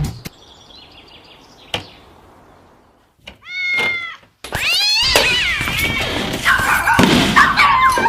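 A domestic cat meowing: one short meow a little past three seconds in, then a longer run of loud, wavering meows from about five seconds in.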